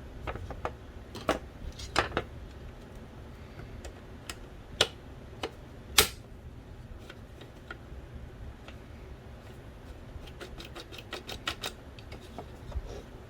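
Irregular sharp clicks and taps of small plastic and metal parts being handled during the teardown of an original Xbox's Philips DVD drive. The loudest knock comes about six seconds in, and a quick run of clicks comes near the end.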